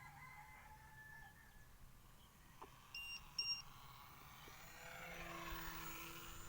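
Two short electronic beeps from a radio-controlled airplane's electronics about three seconds in, then a faint whir that builds toward the end.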